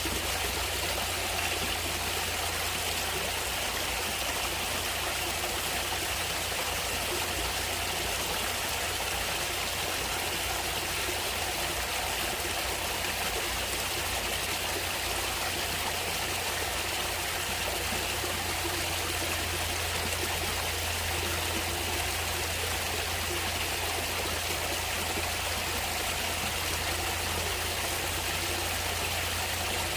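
Water of a natural stream running steadily.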